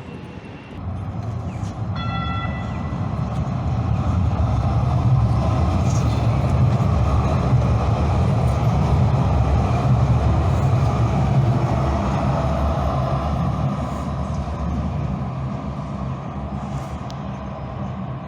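Train running on rails: a heavy rumble that builds up over the first few seconds, stays loud, then eases a little near the end, with a short high tone about two seconds in.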